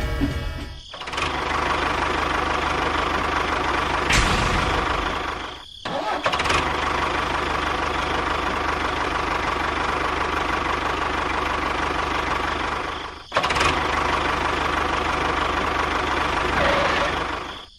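A small motor running with a steady whir, heard in three stretches broken by short drops a little before 1 s, near 6 s and about 13 s.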